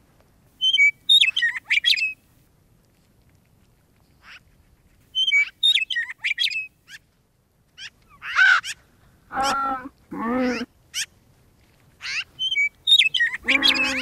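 Birds calling: two bursts of quick, high chirping phrases in the first half, then several longer, lower calls that bend in pitch in the second half.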